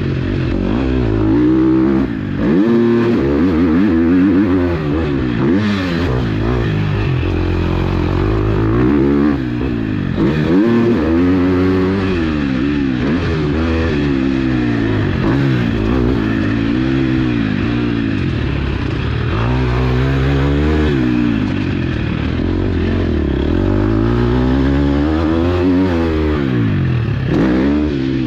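KTM 250 SX-F single-cylinder four-stroke motocross engine under hard riding: revs climb through the gears and drop off again and again as the throttle is opened and shut.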